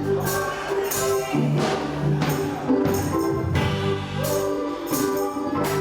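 Live gospel music: a church band plays sustained chords over a bass line and a steady drum beat, with choir voices, between the lead singer's lines.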